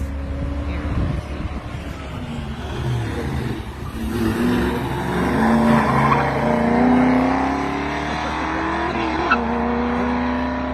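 Leyland P76 race car's engine accelerating hard, its pitch climbing in steps, then a sharp click and drop in pitch at a gear change about nine seconds in, after which it holds steady.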